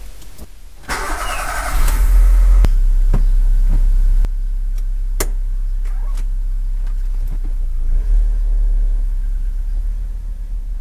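Volkswagen Saveiro Cross engine started with the key, heard from inside the cabin: about a second of starter cranking, then the engine catches around two seconds in and runs at a fast idle before settling to a steady idle a couple of seconds later. A few sharp clicks come from the cabin while it idles.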